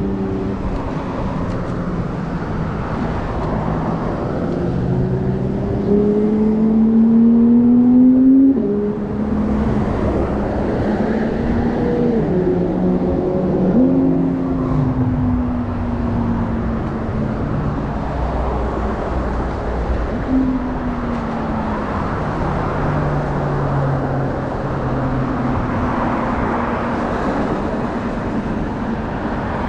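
Road traffic: motor vehicle engines passing and accelerating, their pitch rising and then dropping away, over a steady rush of noise.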